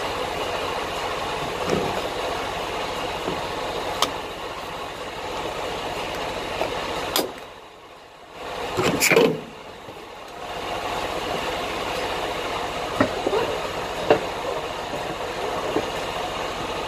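Steady road and engine noise inside a moving semi-truck's cab, with a few light clicks and knocks. About seven seconds in it drops away for about a second, then a short loud sound comes about nine seconds in before the steady drone returns.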